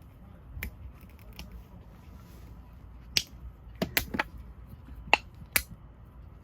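A handful of sharp clicks and snaps, mostly in the second half, over a faint background.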